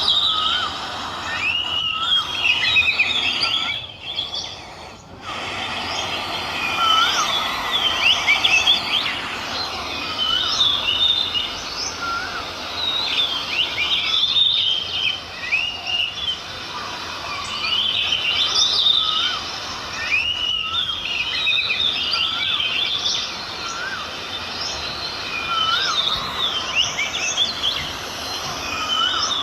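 Several birds chirping and calling together, with busy overlapping chirps higher up and a short rising-and-falling call repeated every second or two beneath them, over a steady outdoor hiss.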